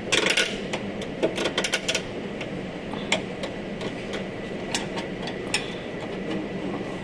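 Scattered clicks and light knocks of hand tools and body parts being handled while a car's fender and bumper are taken apart, with a quick run of clicks in the first two seconds and sparser single knocks after that.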